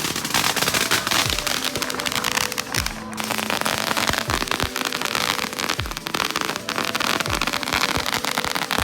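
Fireworks crackling in a dense, continuous run of small pops, with hip-hop music playing over it: steady notes and deep bass drops that slide down about every second and a half.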